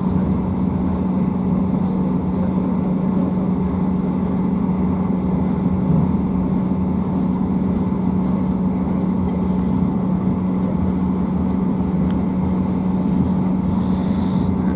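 Inside a Class 158 diesel multiple unit running at speed: a steady, unchanging low drone with a rumbling running noise beneath it.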